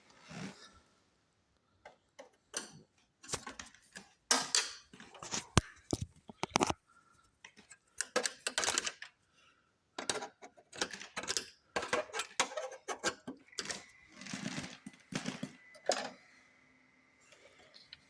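Irregular clicking, clacking and rattling of small hard plastic and metal parts being handled, the sound of an Xbox 360 console being worked on by hand. A faint steady high whine joins in near the end.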